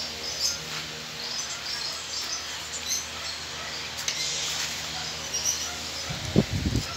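Birds chirping over steady outdoor background noise, with a short, louder low sound near the end.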